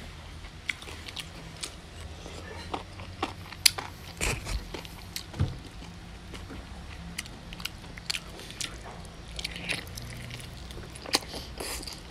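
A person chewing goat meat and noodles close to the microphone, with irregular mouth smacks and clicks.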